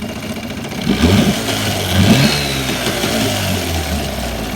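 Boat engine running out of the water on a cooling-water tank, revved up sharply twice, about a second in and again about two seconds in, then easing back.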